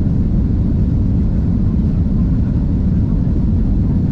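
Steady low rumble of an airliner cabin, the even drone of engine and air noise heard from inside the plane.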